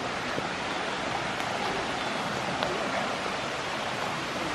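Water rushing steadily down a rocky creek toward a waterfall, an even hiss with no pauses.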